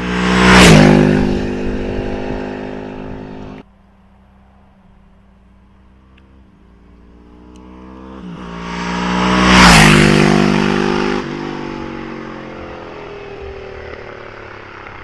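2003 Ducati 999's Testastretta L-twin engine in two high-speed flybys, each swelling as the bike approaches and dropping in pitch as it passes. The first pass peaks just under a second in and cuts off abruptly a few seconds later. The second builds from about six seconds in, peaks near ten seconds and fades away.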